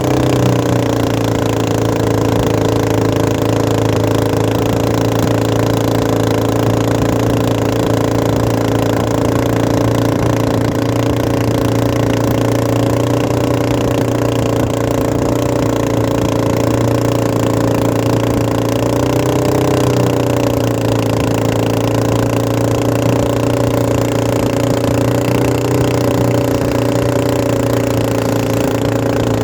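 Engine running steadily at a constant speed, a loud even drone whose pitch wavers briefly about two-thirds of the way through.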